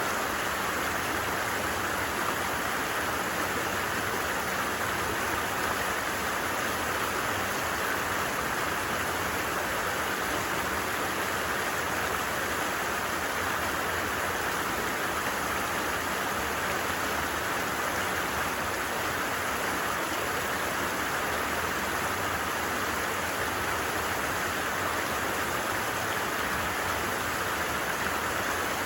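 Steady, unbroken rush of a flowing stream, with light rain possibly mixed into the same even hiss.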